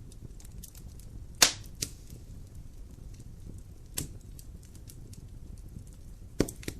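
Wood fire in a fireplace crackling, with faint small ticks over a low steady rumble of flames. Sharp loud pops come about a second and a half in, again at four seconds, and twice in quick succession near the end.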